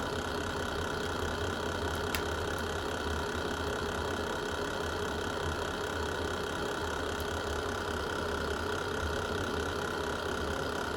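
Wood fire burning in a fireplace: a steady low rumble with light crackling, and a sharp pop about two seconds in.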